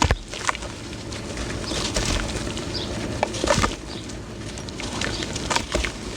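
Dry sand-cement chunks being crushed, crunching and crumbling with many irregular crackles and a sharp crack at the very start.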